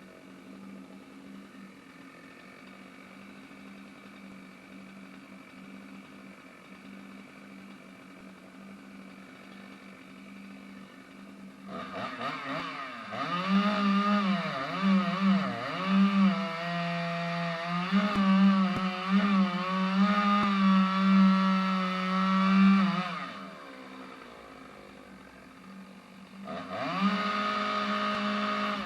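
Engine-driven saw cutting firewood. The engine idles, then runs up to speed about twelve seconds in, its pitch dipping and recovering over and over as the saw loads up in the wood. It drops back to idle, then revs up once more near the end.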